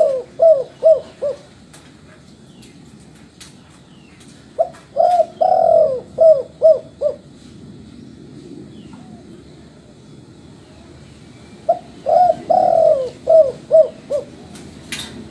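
Spotted dove (tekukur, derkuku) cooing: phrases of about six low, quick coo notes with one drawn-out note among them, repeating every six seconds or so. A short sharp click comes near the end.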